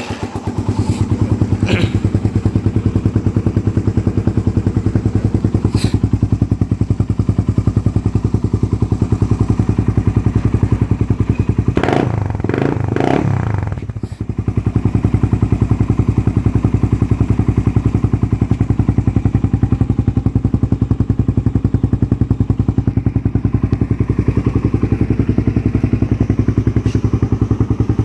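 Suzuki Raider 150's single-cylinder four-stroke engine idling through an Apido Chicken exhaust pipe with the silencer removed, a steady, loud, fast pulsing exhaust note. About twelve seconds in it is revved briefly, rising and falling over about two seconds, then settles back to idle.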